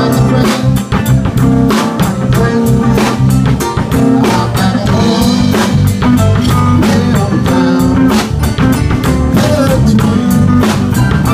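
Live blues band playing an instrumental passage: electric guitar over a steady drum-kit beat and bass.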